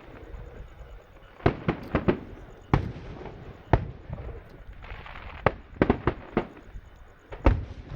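Aerial fireworks bursting: about a dozen sharp bangs in irregular clusters, with a brief stretch of crackling a little past the middle.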